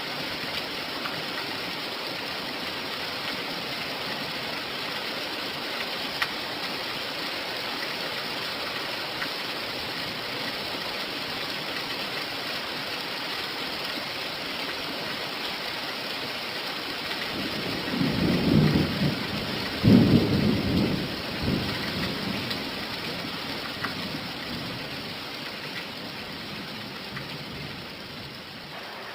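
Steady rain falling, with a few low rumbles of thunder swelling up about two-thirds of the way through.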